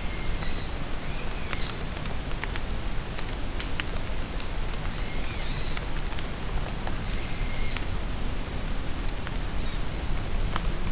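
Steady rain falling in a forest, with scattered drops ticking, and a bird singing short phrases four times.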